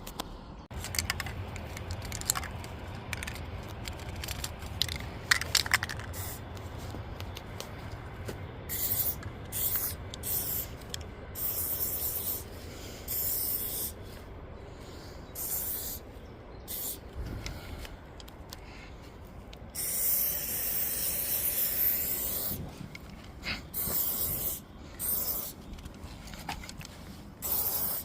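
Aerosol spray-paint cans spraying in repeated short bursts, with one longer spray of about two seconds about twenty seconds in. A few sharp clicks come in the first several seconds.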